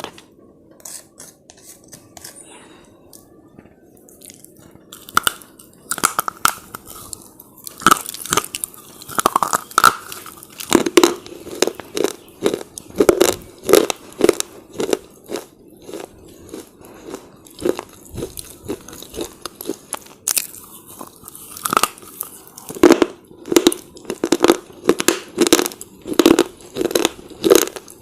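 A person biting off and chewing hard, brittle slate bar chips: sharp snapping bites, then steady crunching at about two chews a second.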